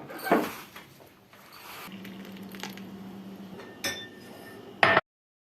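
A few clinks and knocks of glass and dishes, with a steady low hum in the middle; the sound cuts off abruptly near the end.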